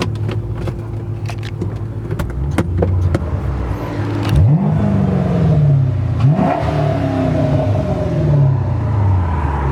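Chrysler 300 SRT8's 6.1-litre Hemi V8 through an aftermarket Flowmaster exhaust, running low and steady, then revving up sharply twice, about four and six seconds in, each time dropping away slowly.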